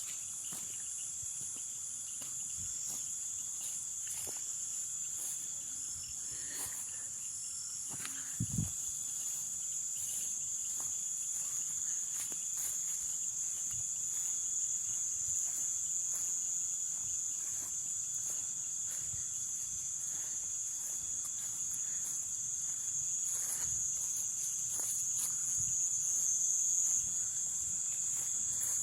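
Night insect chorus of the Amazon rainforest: a steady, high-pitched shrilling with a fainter, lower continuous tone beneath it. A soft low thump comes about a third of the way in.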